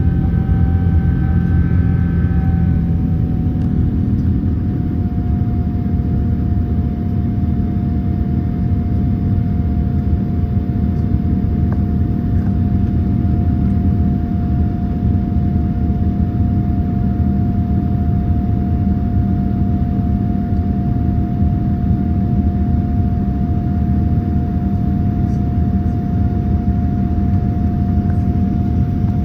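Boeing 787-9 cabin noise in flight: a steady, loud rumble of engines and airflow with a constant whine running through it. A few higher engine tones drop away about two and a half seconds in.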